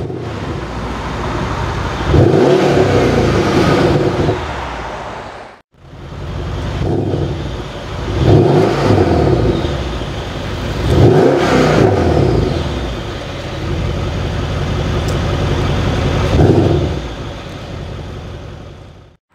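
Mercedes-Benz S 63 AMG V8 revving: four sharp rises in engine speed that each fall back to a steady idle, with a brief break in the sound after about five seconds.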